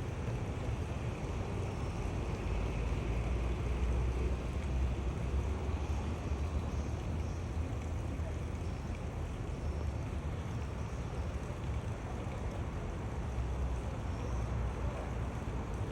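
Steady outdoor background rumble with a hiss, with no distinct calls or events standing out.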